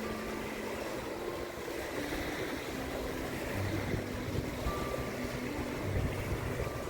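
Small waves washing up on a sandy beach with wind noise, under background music with short held notes.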